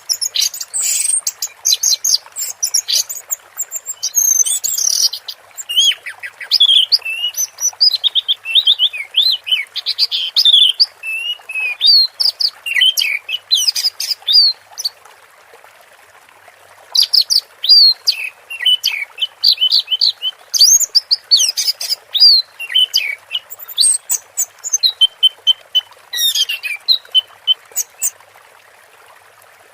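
Orange-headed thrush singing a long, fast, varied run of rapid chirps, whistles and trills, breaking off briefly about halfway and again near the end.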